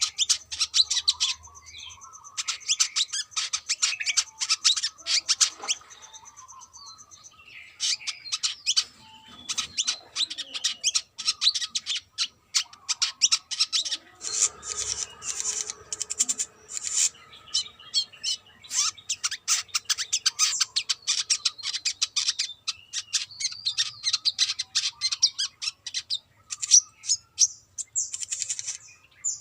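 Brown-throated sunbird singing in a fast, dense string of high, thin chirps and twitters, thinning out for a few seconds near the start before running on without a break.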